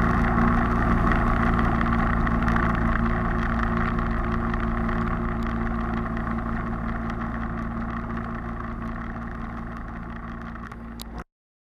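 Motorcycle engine running at a steady speed under road and wind noise, slowly fading, then cutting off abruptly into silence near the end.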